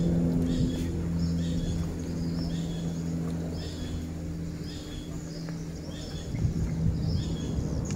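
A bird repeats a short high chirp about once a second over a steady low engine hum.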